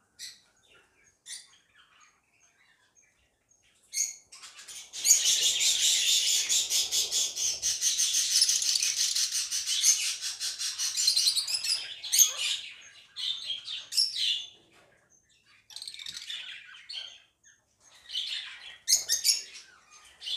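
A flock of caged small parrots, budgerigars and lovebirds, chirping and chattering: a few single calls at first, then a dense run of loud chatter from about five seconds in to about twelve seconds, then scattered bursts of calls.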